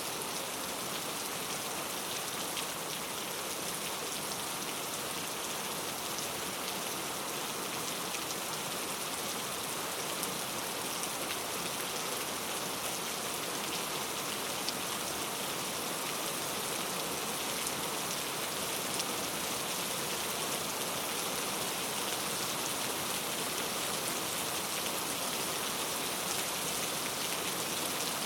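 Steady rain falling in a rainforest, an even hiss of many drops pattering on leaves and surfaces, with no let-up.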